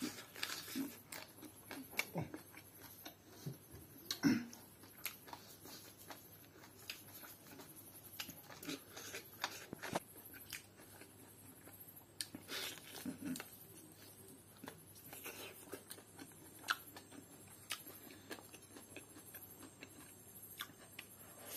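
A man chewing and biting into fried pork close to the microphone: irregular small crunches and clicks of chewing, a little louder about four seconds in and again around twelve to thirteen seconds.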